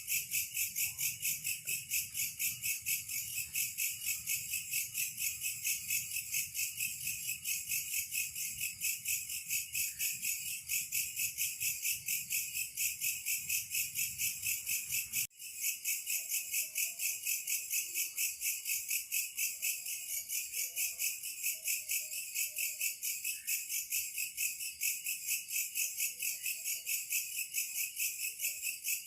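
Chorus of chirping insects in a steady, fast, pulsing trill, about five pulses a second. It breaks off for a moment about fifteen seconds in, and a few faint short calls sound underneath in the second half.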